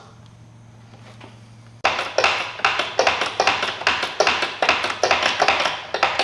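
A low steady hum, then from about two seconds in a fast, loud run of sharp taps and knocks, several a second.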